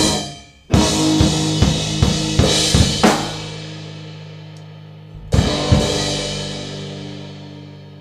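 Grind/noise band on drum kit and distorted guitar playing a series of accented stop hits with cymbal crashes, then one last crash about five seconds in, the held chord ringing out and slowly fading.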